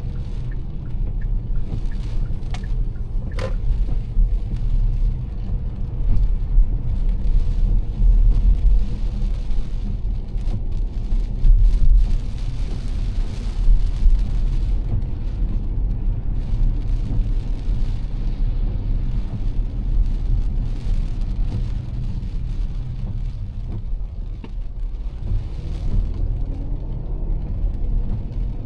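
A car driving through heavy rain: a steady low road rumble with the hiss of rain and wet tyres over it. There is a single sharp tick about three seconds in.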